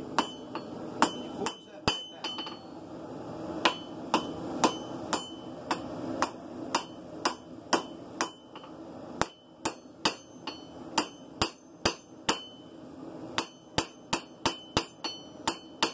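Blacksmith's hand hammer striking a hot steel knife blank on an anvil, forging down the blade's tip: a run of ringing metal blows, about two a second, quickening near the end.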